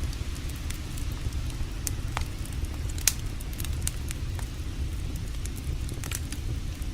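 Wood campfire crackling, with scattered sharp pops over a steady low rumble; the loudest pop comes about three seconds in.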